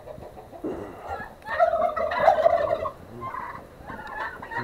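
Turkeys gobbling: a loud burst from several birds at once starting about one and a half seconds in, then scattered shorter calls.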